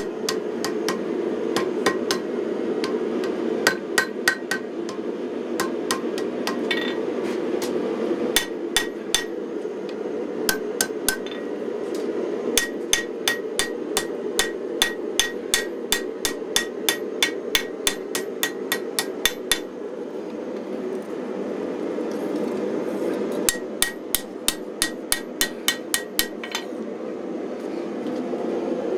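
Runs of hammer blows on a red-hot 5160 spring steel knife blade over an anvil, about three strikes a second, many with a bright ring, as the point is rounded off and drawn down. A steady rushing from the gas forge runs underneath, with a pause in the blows about two-thirds of the way through.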